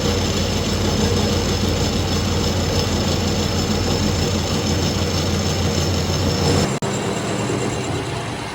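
A workshop machine running steadily with a low hum. Near the end it breaks off abruptly and a quieter machine noise without the hum follows.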